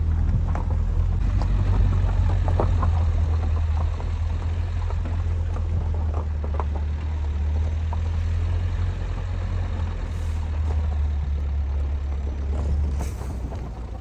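Low steady rumble of a vehicle driving on a rough, broken track, with scattered knocks and jolts; the rumble falls away about a second before the end.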